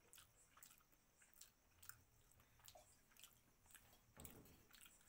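Faint, wet chewing of mutton, with scattered small mouth clicks and a slightly fuller sound about four seconds in.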